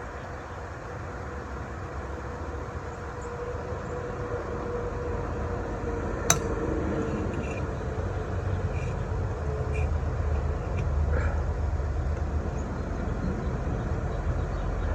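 Steady low rumble of vehicle traffic that slowly grows louder, with one sharp metallic tap about six seconds in.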